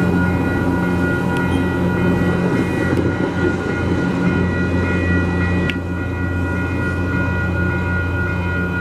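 Metro-North push-pull commuter train passing close by and pulling away: stainless-steel coaches rolling past over a steady engine drone with a high whine, and a few sharp wheel clicks.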